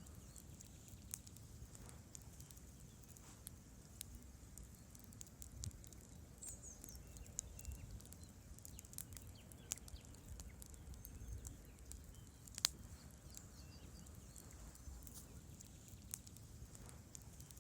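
Faint wood campfire crackling: scattered sharp pops and snaps of burning logs over a low steady rumble, with one louder pop near the middle.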